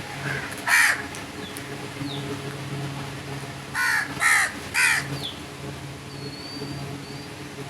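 Crow cawing: one harsh caw about a second in, then three caws in quick succession around four to five seconds in. Faint thin high chirps from a small bird come near the end.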